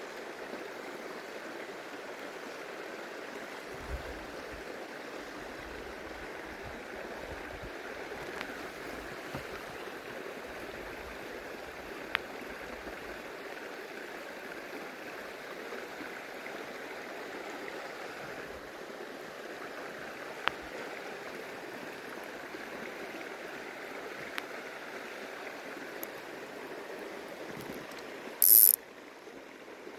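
Shallow stream running steadily, with a few small clicks. A brief, loud high hiss comes near the end.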